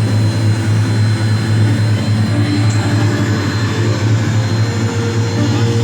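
Aircraft engines droning steadily in flight, with a strong, even low hum.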